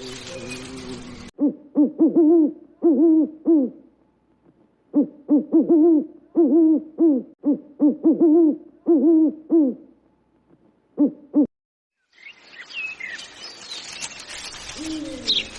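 An animal's low hooting call, short hoots repeated in quick runs of two or three a second, each run a few seconds long with brief pauses between them.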